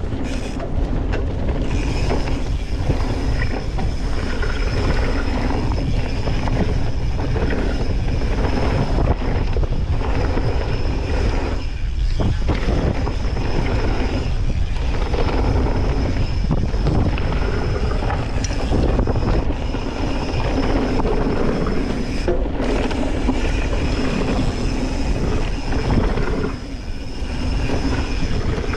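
Wind rushing over a mountain-biking POV camera's microphone on a fast descent, with knobby tyres on dirt and the bike rattling over bumps. It eases off briefly about three-quarters of the way through.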